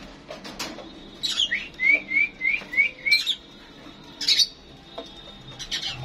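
Small cage birds chirping: sharp high chirps scattered throughout, with a quick run of five short rising notes in the middle.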